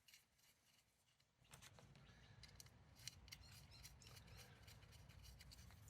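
Faint small metallic clicks and ticks from serrated washers and nuts being fitted by hand onto the studs of a Triumph gearbox outer cover, starting about a second and a half in.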